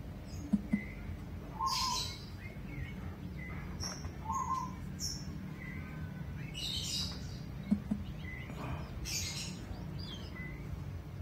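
Birds chirping: short calls repeating every second or so over a low steady hum. Two quick low pops come near the start and one more later on, the loudest sounds here.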